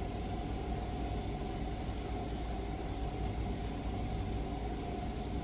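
A steady low mechanical hum with hiss and a faint constant whine, unchanging throughout.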